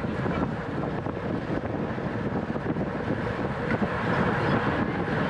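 Steady rush of wind across the microphone of a camera moving at racing speed with a bicycle, with a low rumble underneath and no distinct strikes or tones.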